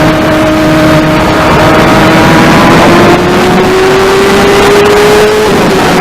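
Kawasaki 636 sport bike's inline-four engine pulling hard at high revs, its pitch climbing slowly, with a brief dip near the end as it shifts up before climbing again. Heavy wind rush on the microphone at speed.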